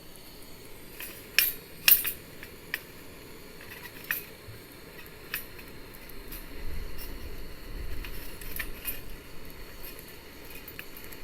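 Metal parts of a small folding fire stand clinking and clanking as it is handled once cooled. There are a few sharp clinks in the first two seconds, then scattered lighter ones.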